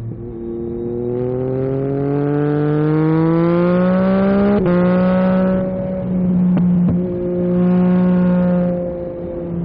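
Yamaha MT-09 SP's three-cylinder engine through an Akrapovic carbon racing exhaust, accelerating in gear with its pitch rising steadily for about four and a half seconds. Then a quick upshift with a click and a slight drop in pitch, after which the engine holds a steady cruise, easing off briefly a couple of times.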